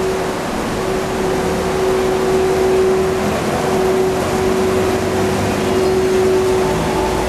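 EF81 electric locomotive pulling a freight train away and passing close, with a steady humming tone that drops out briefly a few times, followed by the freight wagons rolling past with a continuous noise of wheels on the rails.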